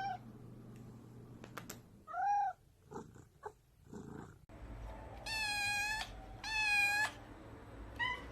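Cat meowing: one short rising-and-falling meow about two seconds in, then two long, steady, high meows and a short one near the end.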